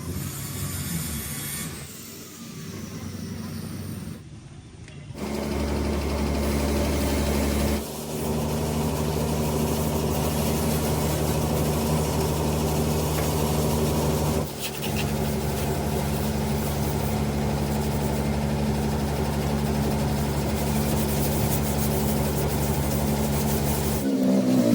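Car engine running at a steady speed, its hum unchanging, with two brief breaks.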